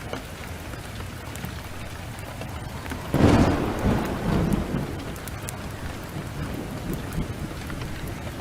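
Steady heavy downpour with a wood fire crackling. A clap of thunder breaks about three seconds in and rumbles for about two seconds before fading.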